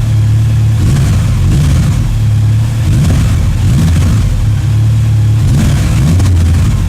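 Honda CB1100 RS air-cooled inline-four motorcycle engine running loud, its pitch rising and falling several times as the throttle is worked.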